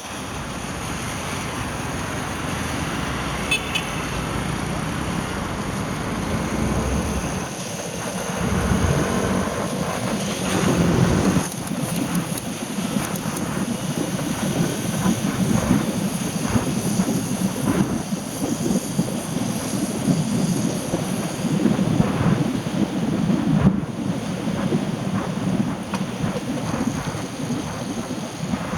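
Traffic on rain-wet roads: a steady hiss of tyres and rain, with louder swells as vehicles pass.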